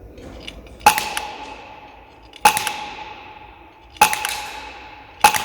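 Airsoft HK416 replica with a Polarstar Kythera HPA engine firing four single shots about a second and a half apart. Each shot is a sharp crack followed by a metallic ring that fades away.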